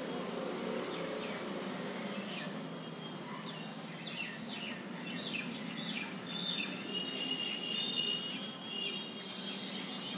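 Birds chirping in the background: a run of quick high chirps about halfway through, then a held high trilling note, over a steady low hum.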